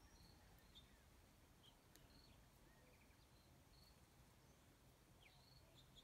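Faint, high chirps of small birds: short notes and brief falling twitters, one every half second or so, over a low background rumble.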